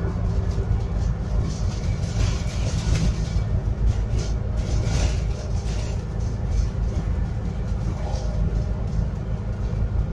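Interior sound of a Scania N280UD double-deck bus running on biogas: a steady low engine drone and road rumble, with rattles and hiss in the cabin.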